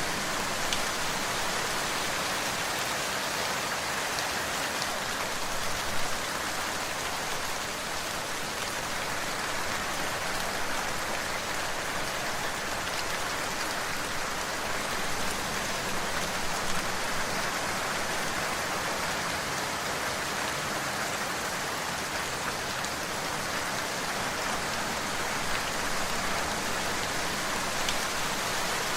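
Steady rain falling on a surface, an even hiss with occasional individual drops ticking.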